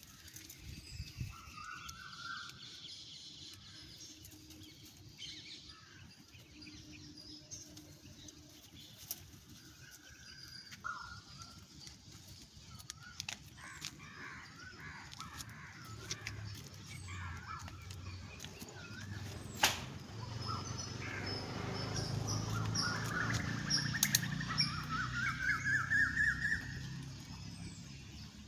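Several birds chirping and calling, with a run of repeated notes climbing steadily in pitch over the last several seconds. A low rumble runs underneath from about halfway through.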